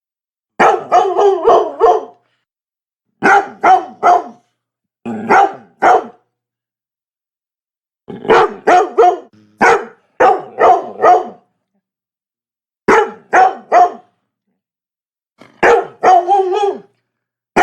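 Labrador barking in quick runs of two to about nine barks. The runs are separated by completely silent gaps of about one to two seconds.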